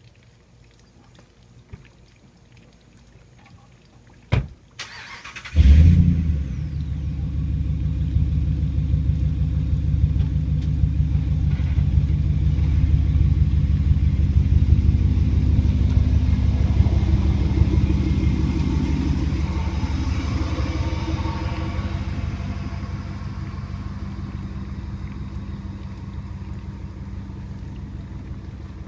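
Jeep Grand Cherokee 4.7-litre V8 with a Flowmaster Super 44 muffler and side exhaust being started: a click and a brief crank, then the engine catches with a loud flare about five seconds in. It settles into a steady low idle that slowly gets quieter over the last several seconds.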